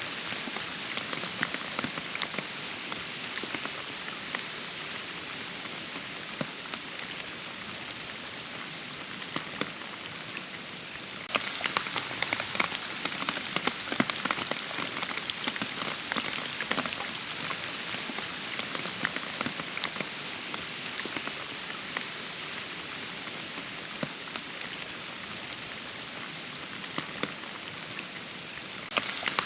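Steady rain with many separate drops ticking close by. About eleven seconds in it suddenly grows louder with denser drop hits, then eases back gradually, jumping up again near the end.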